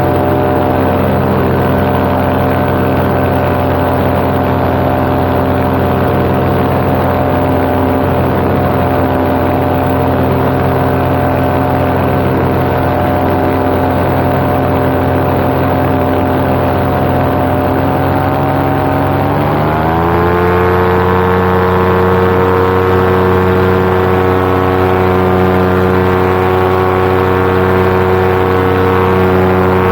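Paramotor engine and propeller running steadily in flight. About two-thirds of the way in, the throttle is opened, and the engine note rises over about a second and holds at higher revs.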